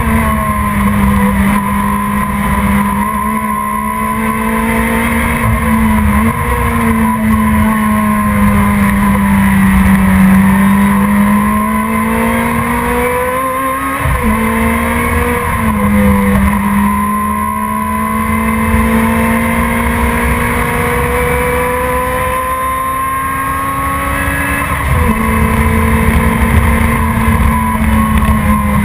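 Production sports race car engine running hard at sustained revs. Its pitch steps up or dips sharply several times through the stretch and eases back between.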